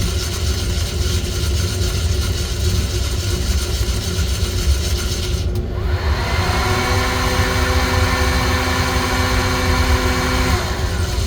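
Coffee-roasting equipment running with a steady low mechanical rumble. About five and a half seconds in, a second motor whine rises in pitch, holds steady for about four seconds, then winds down near the end.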